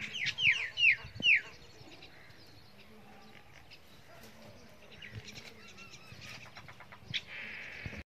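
A bird gives about five loud, sharp calls in quick succession in the first second and a half, each sliding downward in pitch. Faint scattered ticks and rustles follow.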